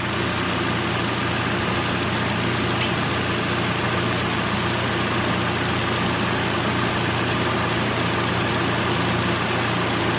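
Car engine idling with the air conditioning on and the electric cooling fan running, a steady, unchanging sound.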